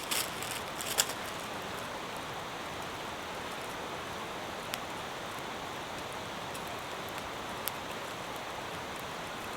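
Steady heavy rain falling, with a few sharp clicks or drips: a cluster in the first second, then single ones about halfway and later.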